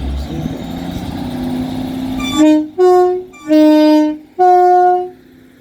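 Class 150 Sprinter diesel unit sounding its two-tone horn four times, alternating low and high notes, the third blast the longest. Before the horn its diesel engine note rises slowly.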